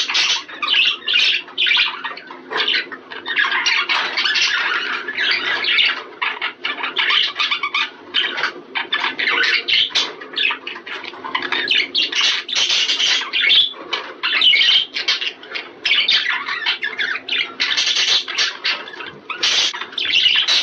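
Budgerigars chattering in a group: a dense, unbroken run of quick, short squawks and chirps. This is the warbling chatter played to pet budgies to stimulate breeding.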